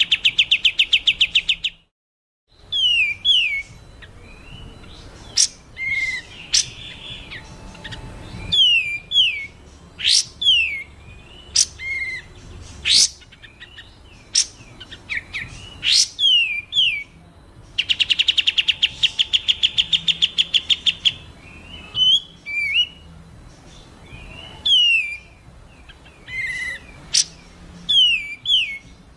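Recorded songbird calls used as masteran for training cage birds: two long, fast buzzy trills, one at the start and one in the middle, with quick down-slurred whistles and sharp rising chips in between. About two seconds in the sound drops out briefly, like an edit cut.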